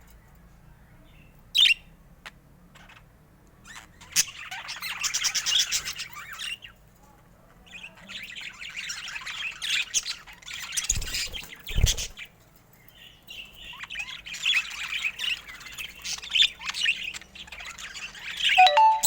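Budgerigars chirping and warbling in chattering bouts of several seconds, with short pauses between, and a sharp single chirp early in. About two-thirds of the way through, a brief dull low thump sounds under the chatter.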